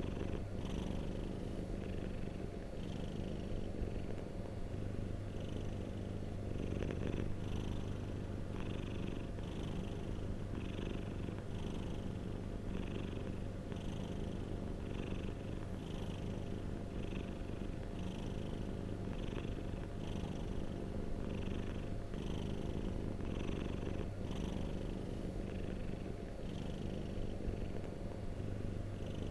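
Domestic cat purring steadily and close up, the purr pulsing in a regular rhythm of roughly one cycle a second as the cat breathes in and out.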